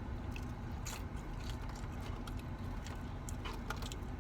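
Close-up chewing of a crunchy fried taco shell: scattered short crisp crunches over a steady low hum.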